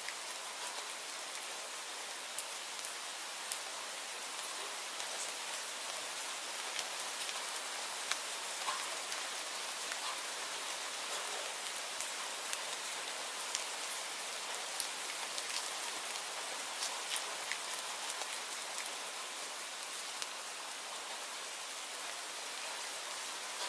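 Steady rainfall: a dense, even hiss with many scattered sharp ticks of single drops striking a surface.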